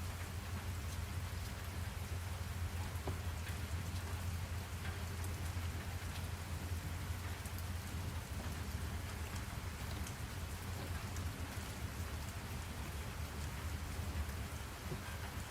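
Steady rain falling, with many small drop ticks over an even hiss and a steady low rumble underneath.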